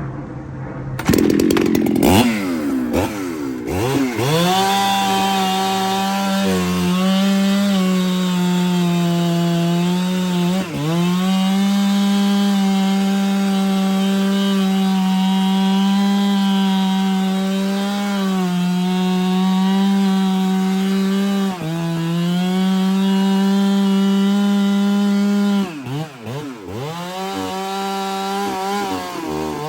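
Ported Husqvarna 395 chainsaw, a large two-stroke, revved up, then held at high, steady revs under load in a cut for about twenty seconds, with brief dips in pitch. Near the end the throttle is let off and the engine drops back, blipping.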